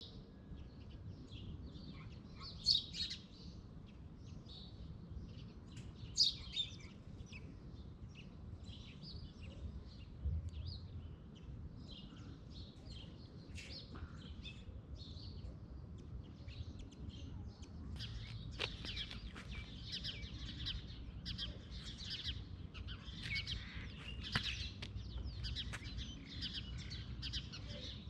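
Several birds chirping, many short high calls overlapping, getting busier about two-thirds of the way through, over a steady low background rumble.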